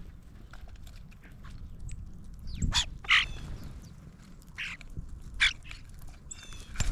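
Birds calling: a few short, separate calls starting a little under three seconds in, and more near the end.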